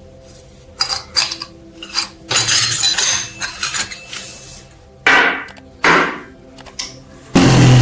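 Metal parts and hand tools clinking, knocking and scraping on a workbench: a run of sharp clicks and knocks, then two longer scraping strokes. Near the end a loud, steady power-tool noise starts suddenly.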